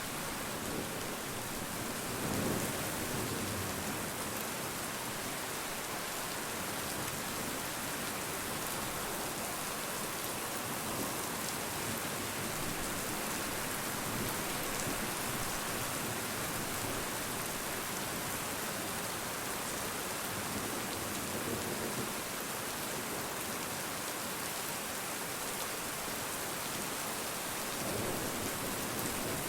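Steady rain falling and pattering on surfaces, an even hiss with no break. A few low rumbles rise under it, about two seconds in and again near the end.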